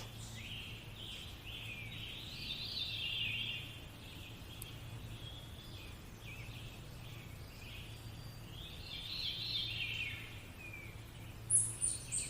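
Birds chirping and singing in a nature-sounds recording, with two denser spells of song and a few sharp, higher chirps near the end, over a faint low hum.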